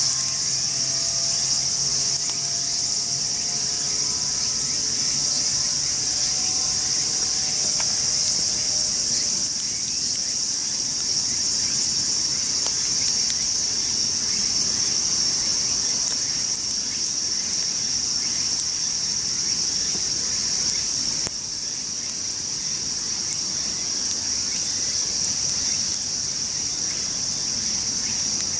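Night insects, crickets, in a steady high-pitched chorus, with faint scattered ticks over it.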